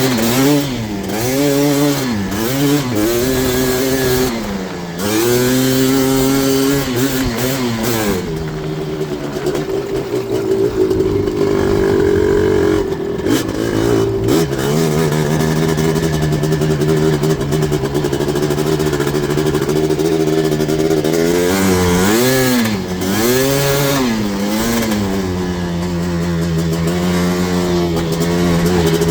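Yamaha Blaster ATV's single-cylinder two-stroke engine, big-bored to 240cc and breathing through an FMF exhaust with arc silencer, under hard riding. Its revs rise and fall quickly several times in the first few seconds, hold high and near-steady for a long stretch at full throttle, dip twice again later on, then settle to a steadier, lower pitch near the end.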